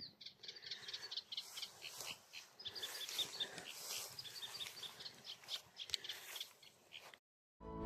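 Eurasian reed warbler singing: a fast, chattering run of short high notes that cuts off suddenly about seven seconds in.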